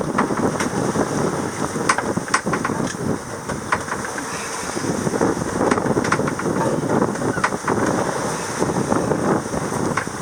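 Wind buffeting the microphone on a sailboat at sea, over the rush of water, with scattered short sharp crackles.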